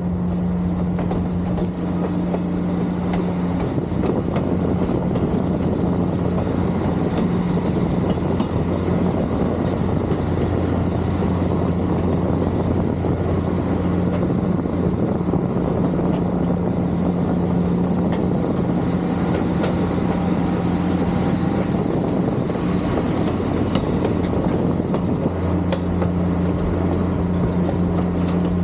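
Steady running noise of a vehicle under way, with a continuous low drone that fades and returns.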